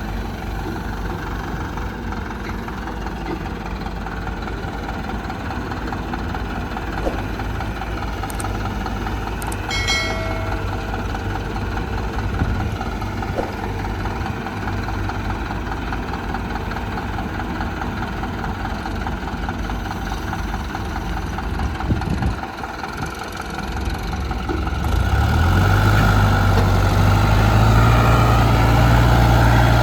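Diesel engines of an excavator and tractors running steadily at a loading site. A short high tone sounds about a third of the way through, and near the end the engines get louder with a deep, steady hum.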